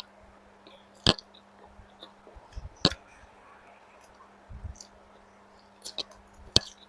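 Close-miked eating of noodles: a few sharp mouth clicks and smacks spread over several seconds, with softer low thumps between them, over a faint steady hum.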